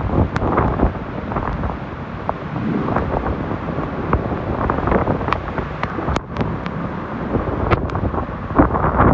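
Hurricane-force wind blasting across the microphone, rising and falling in gusts and growing louder near the end, with scattered sharp ticks of something striking.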